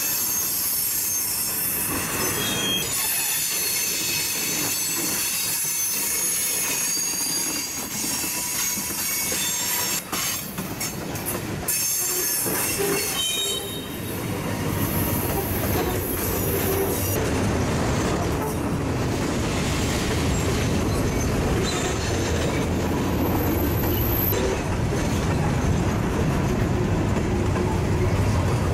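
Freight train cars rolling past, with steel wheels squealing in high, steady tones through the first half. About halfway through a heavier low rumble and clatter takes over as a string of tank cars goes by.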